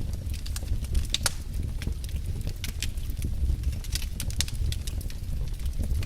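Wood logs burning in a fireplace, crackling with irregular sharp pops over a low, steady rumble of the fire.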